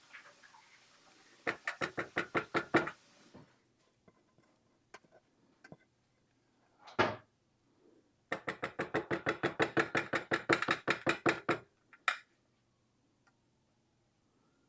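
Quick, evenly spaced knocks of a spatula working against a pan or bowl, about seven a second, in two runs with a single louder knock between them.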